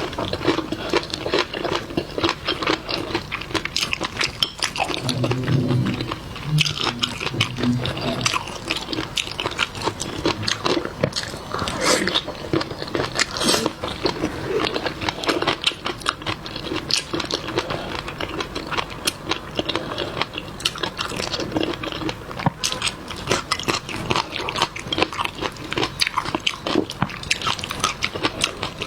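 Close-miked chewing and biting of seafood, with wet crunching and a dense, irregular crackle of small clicks throughout.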